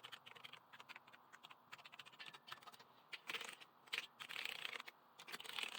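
Keys of a Logitech G910 mechanical keyboard with Omron-made Romer-G switches being pressed one after another, giving faint, quick clicks that come in denser runs about three, four and five and a half seconds in. Each repaired key is being tested after aged switches that failed to register or double-typed were replaced.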